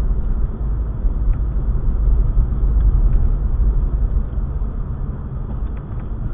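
Steady low rumble of a car driving, with a few faint ticks and no impact.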